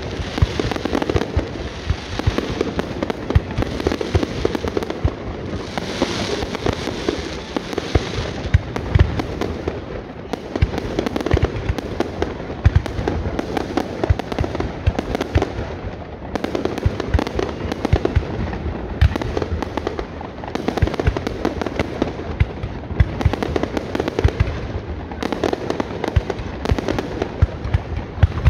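Aerial fireworks going off in quick succession: a dense, unbroken run of bangs and crackling bursts.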